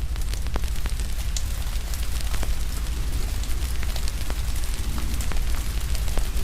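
Fire crackling with frequent sharp, irregular pops over a steady hiss of rain and a deep low rumble.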